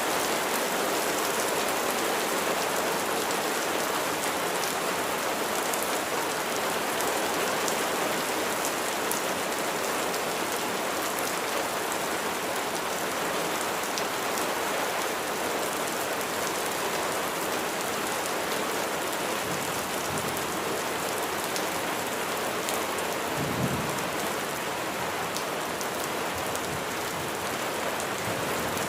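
Steady heavy rain, dense patter with individual drop clicks, and a brief low rumble of thunder about two-thirds of the way through.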